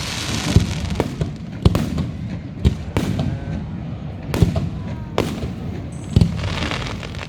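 Fireworks display: aerial shells bursting in a string of sharp booms roughly a second apart, with a hissing crackle near the start and again near the end.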